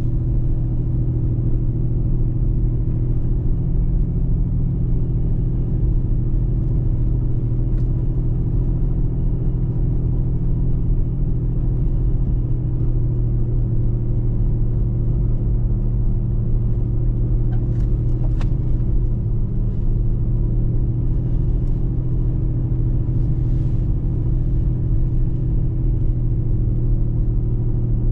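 Car driving at a steady speed: an even low drone of engine and road noise with no revving. A few faint ticks come about two-thirds of the way through.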